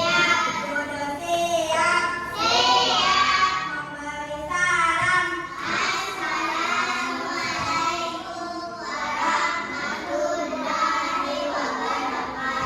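A child singing a song in a high voice, with held notes and short breaks between phrases.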